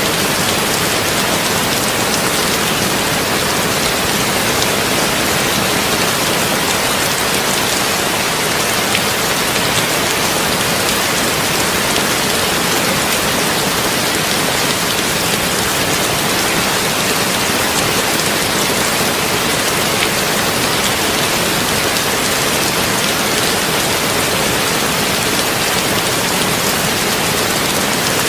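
Heavy rain on a tin roof: a steady, even hiss of rain with fine pattering drops and no breaks or thunder.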